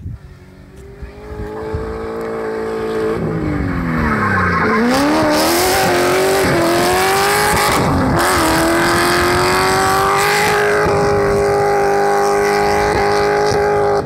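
BMW E30's swapped-in M60B40 4.0-litre V8 revving hard while the car spins its rear tyres in a smoky slide, with tyre squeal. The engine note falls and climbs again a few seconds in, dips briefly midway, then holds high and steady near the end.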